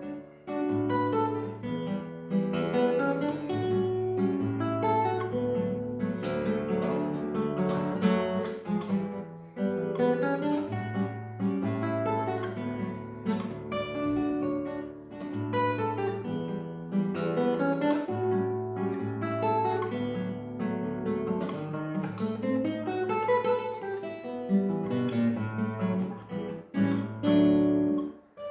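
Acoustic guitar music: a plucked melody over a line of bass notes, with a brief pause near the end before the playing goes on.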